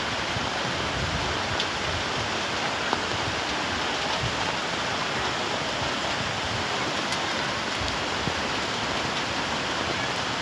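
Steady rushing of a stream in flood, its swollen water running fast and even.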